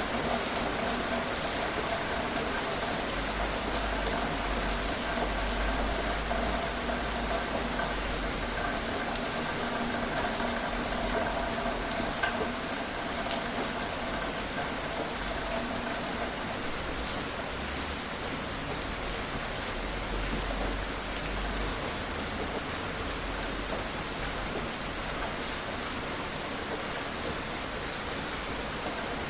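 Steady gentle rain falling, an even hiss of drops with scattered sharper drop ticks. A faint steady hum underneath fades out about halfway through.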